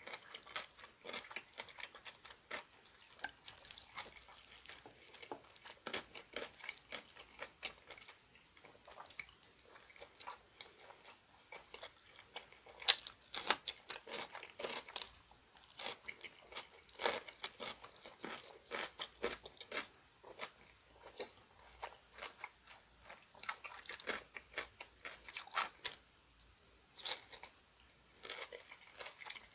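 Close-miked eating: chewing with repeated crisp crunches of ponytail-radish kimchi (chonggak kimchi), loudest around the middle and again near the end.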